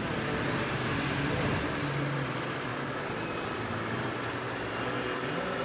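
A 1997 Honda Civic's four-cylinder engine idling steadily with its air conditioning running, a continuous even hum in the open engine bay.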